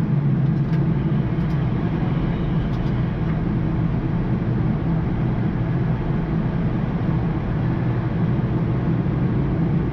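Steady flight-deck noise of a Boeing 787-9 in flight: an even, unbroken rush of air and drone, strongest low down.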